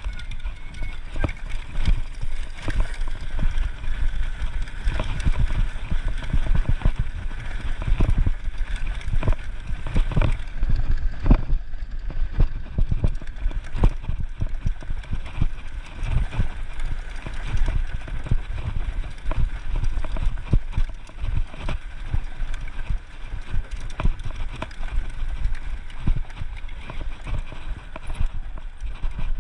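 Dirt bike ridden slowly over rough rocky ground: a steady low rumble under a dense run of irregular knocks and clatter.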